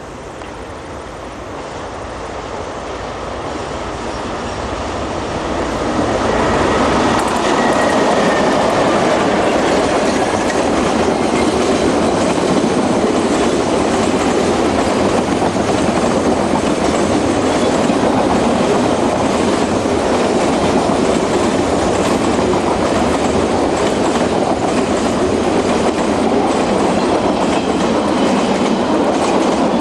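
Freight train drawing closer over the first six seconds or so, then passing loud and steady as its wagons roll by.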